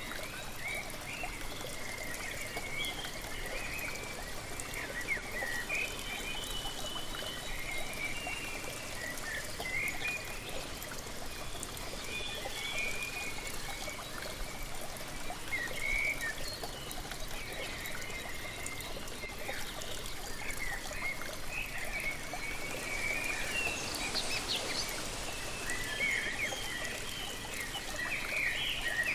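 Waterfall rushing steadily, with many small birds chirping and twittering throughout.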